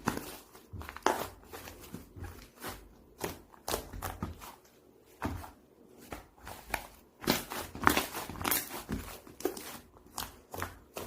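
Irregular soft knocks and rustles, like footsteps and handling noise, a few each second with short quiet gaps.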